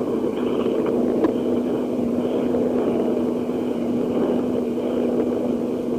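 Steady rushing noise and hum on a telephone line, with a constant low tone, during a pause in the call.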